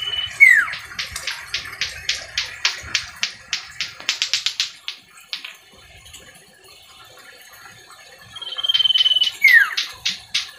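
Common iora (cipoh) singing: a long steady whistle ending in a sharp falling note, then a fast dry chattering run of short notes. The phrase comes round again near the end.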